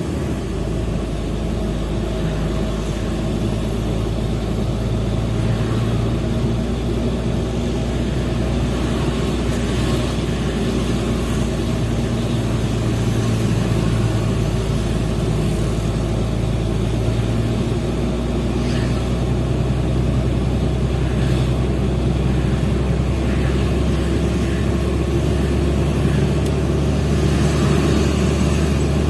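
Diesel engine of a Hino FL 260 JT truck running steadily while driving with a heavy coal load.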